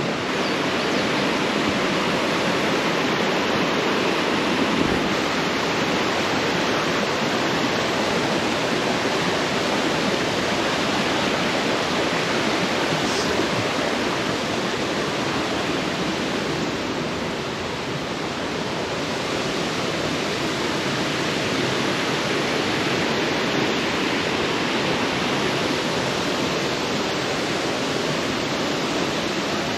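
A waterfall on Reedy Cove Creek pouring in heavy flow after recent rain: a steady, loud rush of falling water.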